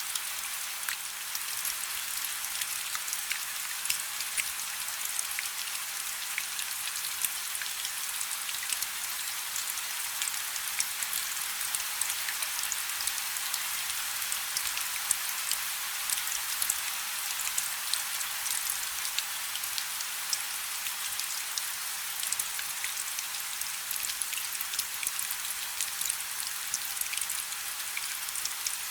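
Steady rain falling on a river: an even hiss, strongest in the high range, dotted with many small, sharp drop ticks.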